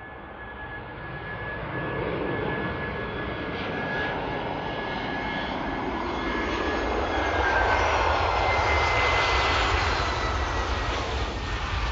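Jet airliner's engines growing steadily louder as it approaches, with a high whine that drops in pitch about seven seconds in as the aircraft passes, then a broad rushing noise with a low rumble.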